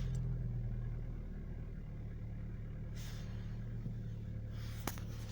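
Opel C16SE 1.6-litre four-cylinder petrol engine idling steadily just after starting, with a single sharp click near the end. The owner hears a knock from the cylinder head that he cannot explain.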